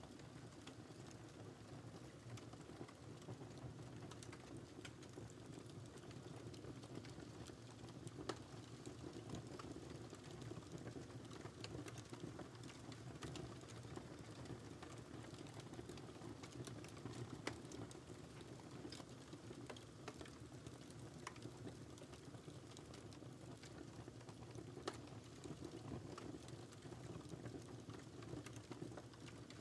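Wood fire crackling in a fireplace: quiet, irregular small pops and snaps over a soft steady background of burning, with a few sharper snaps standing out.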